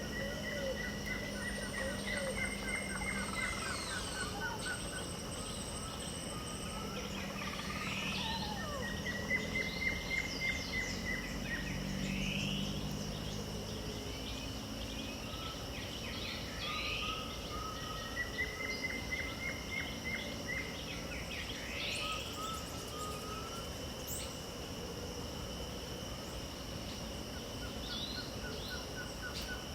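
Pantanal dawn chorus: several birds calling over a steady high-pitched drone of insects. A short rising call repeats every few seconds alongside trilled phrases, and a low drone sounds through the first half.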